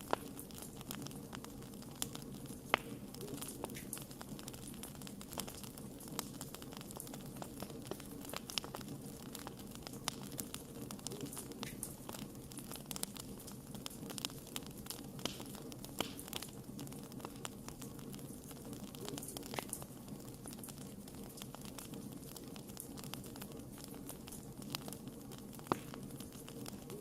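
Wood fire burning steadily: a low rushing of flames under irregular crackles and sharp pops of burning wood, a few pops louder than the rest.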